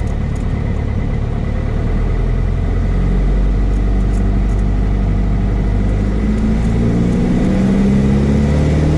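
Cessna 172S's four-cylinder Lycoming engine and propeller powering up for the takeoff roll. The engine note gets louder about three seconds in and rises steadily in pitch over the last few seconds as it comes up to full power.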